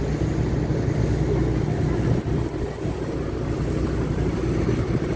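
A motor engine running steadily, a low even drone with no change in speed.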